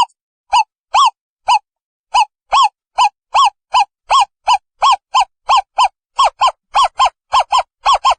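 Owl calling: a long series of short hooting notes, each rising and falling slightly in pitch. They start at about two a second and quicken to nearly four a second toward the end.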